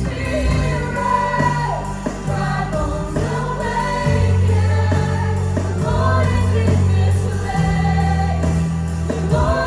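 Live worship band playing a slow praise song with held bass notes, and voices singing long wordless or unclear sustained lines over it.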